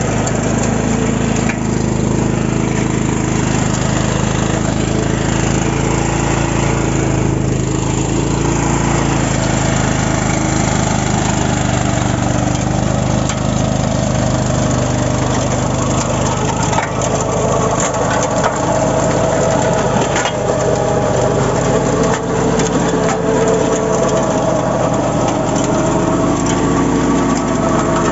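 A 12 hp mini power tractor (power weeder) engine running steadily, with scattered sharp knocks and clicks over it in the second half.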